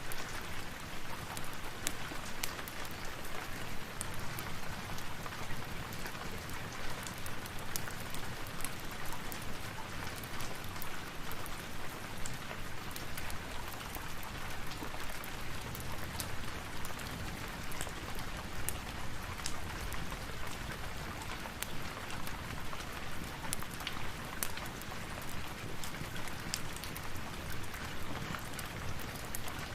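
Steady rain falling, with many scattered sharp clicks and crackles mixed in.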